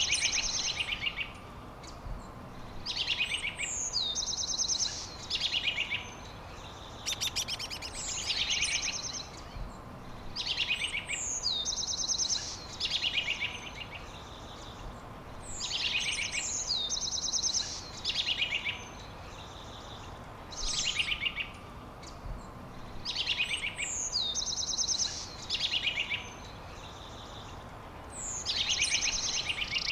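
A songbird singing the same short high phrase over and over, about every two to three seconds: a quick downward slur into a fast trill.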